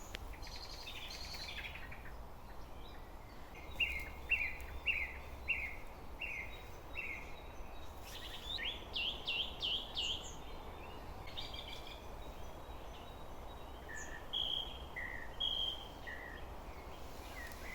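Songbird singing in phrases of short repeated whistled notes, with pauses between the phrases, over a steady low background noise.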